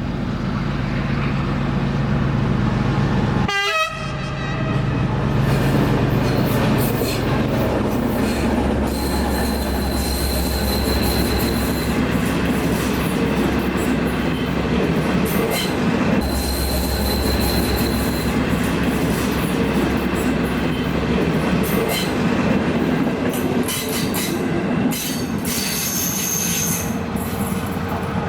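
ÖBB Class 2050 diesel-electric locomotive running steadily as it hauls its passenger cars past, the engine drone continuous. A thin high wheel squeal comes in twice, about a third of the way in and again past the middle.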